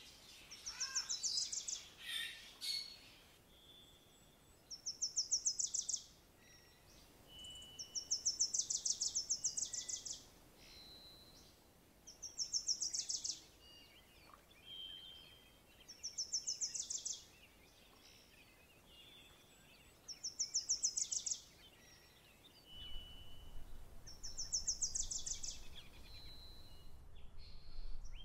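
Birdsong: a fast, high-pitched trill of a second or so, repeated about every four seconds, with short single whistled notes in between.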